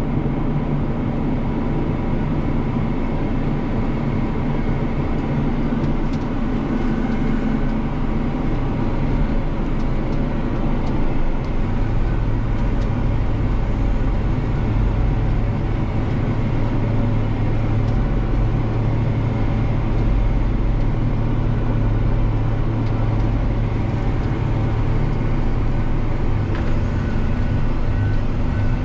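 Heavy diesel engine running steadily while a stuck floater fertilizer truck is pulled out of the mud, the low engine note growing deeper and louder from about twelve seconds in as it works harder.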